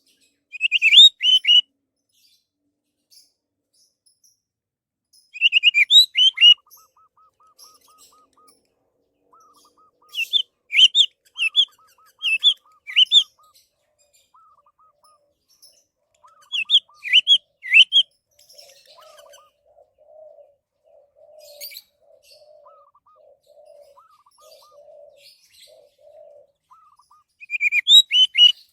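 Orange-headed thrush singing: about five short, loud phrases of quick rising-and-falling whistled notes, separated by pauses of several seconds. Fainter, lower repeated calls fill the gaps between phrases.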